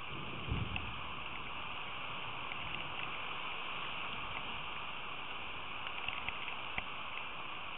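Steady rain hissing down, with scattered small drop ticks and a brief low thump about half a second in.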